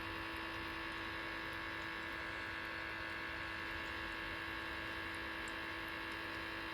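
Sunbeam Model 697 ultrasonic personal humidifier running on its low setting: a steady electrical hum with a few fixed tones, not quiet for an ultrasonic humidifier.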